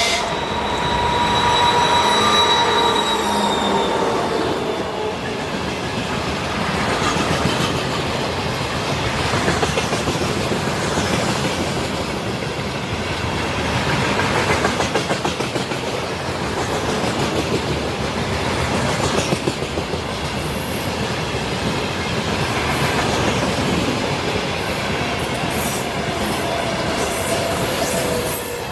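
A long freight train rolling past, its wagon wheels clattering steadily over the rail joints with intermittent wheel squeal. A pitched tone fades and drops slightly in pitch over the first few seconds.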